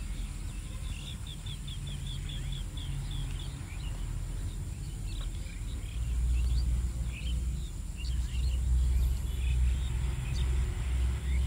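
Birds chirping: a fast run of short chirps, about four a second, for the first three seconds, then scattered calls. Underneath, a low rumble grows louder about six seconds in.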